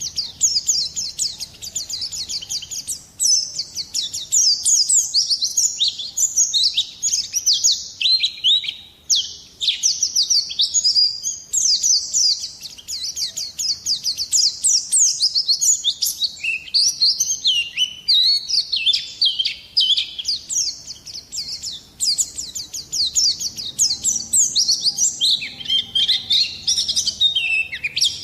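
Pleci (white-eye) singing a long, rapid, high-pitched twittering song of quick chirps and trills, broken by a few brief pauses.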